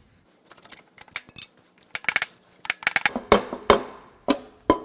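Metal parts and tools clinking and clanking in a quick irregular string, louder in the second half; the last knock leaves a short metallic ring.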